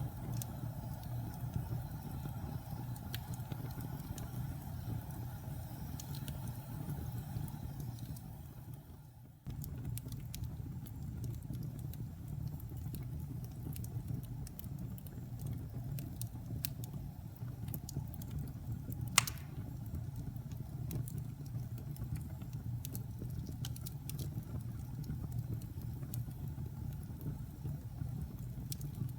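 Fire burning in a fireplace: a steady low rumble with scattered small crackles and one sharp, loud pop a little past halfway. The sound dips away about a third of the way in and cuts back in suddenly.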